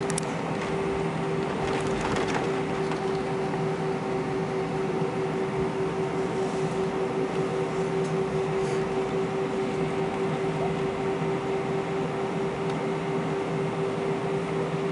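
Airbus A320 with its engines running: a steady hum with a constant mid-pitched tone and a few light rattles about two seconds in.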